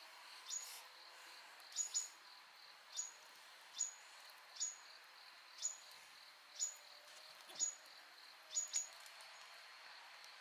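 Short, high chirps falling in pitch, about one a second and sometimes in quick pairs, over a steady high insect drone: a bird calling over crickets or cicadas.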